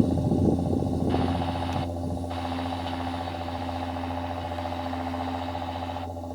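John Deere tractor engine running steadily with a constant low drone, rougher and louder for the first couple of seconds before settling to an even, slightly quieter run.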